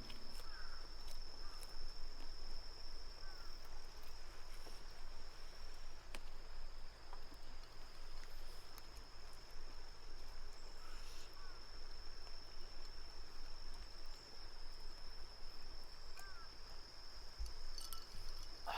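Insects trilling in one steady, high-pitched note throughout, with a few short faint chirps now and then.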